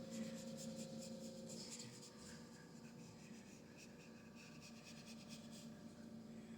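Faint scratchy rubbing of a paintbrush working acrylic paint on canvas, over a steady low hum.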